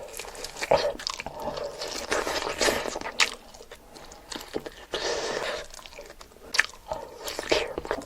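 A person eating close to the microphone: irregular bites and wet chewing, with sharp crunchy clicks.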